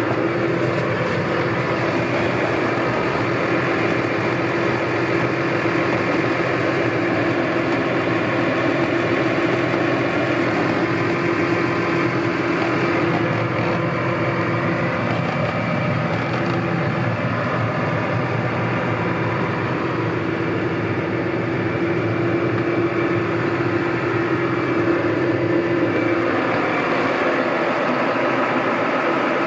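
New Holland T6.180 tractor's diesel engine idling steadily.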